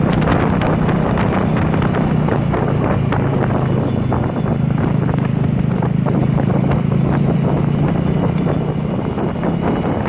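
Vehicle engine running steadily while driving, with frequent rattles and knocks throughout.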